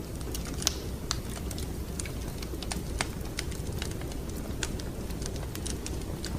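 Wood fire crackling: irregular sharp pops and snaps, several a second, over a steady low rumble. The loudest pops come about two-thirds of a second in and again about three seconds in.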